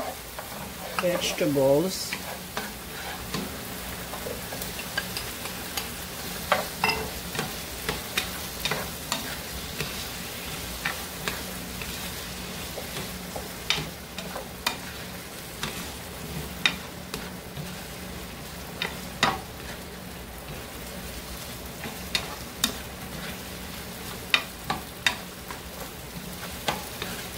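Vegetables sizzling in hot oil with garlic and ginger in a frying pan as they are stir-fried, with frequent sharp clicks scattered through the steady hiss.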